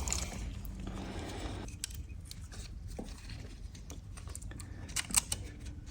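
Faint hands-on workshop noises: light clicks, taps and rubbing as engine parts are handled, with a few sharper clicks about three and five seconds in.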